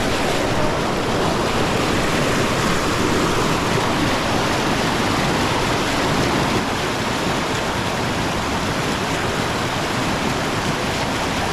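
River water rushing over rocks, a loud steady roar of flowing water.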